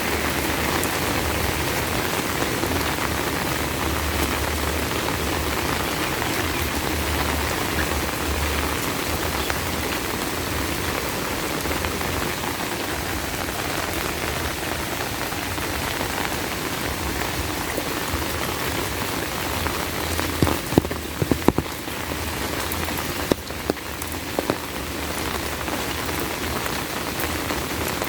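Heavy rain falling steadily, an even hiss of drops, with a few sharp clicks about three-quarters of the way through.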